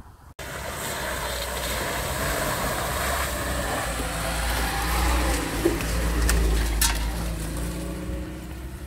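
Lada Niva 4x4 engine running at low revs as it crawls along a grassy, overgrown forest track, with a steady low rumble and tyre noise. Two sharp cracks come a little over six seconds in.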